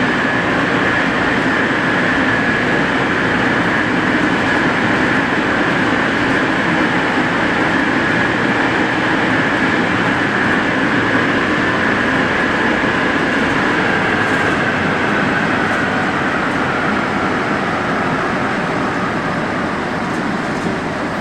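Rubber-tyred NS-74 metro train running, a steady high whine over continuous rolling noise. The whine sinks slightly in pitch and the sound grows a little quieter over the last few seconds.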